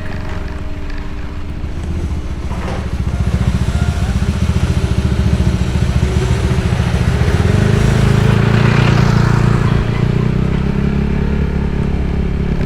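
Motorcycle engine running while riding, its fast firing pulses steady throughout. It grows louder about three seconds in and climbs in pitch around the middle.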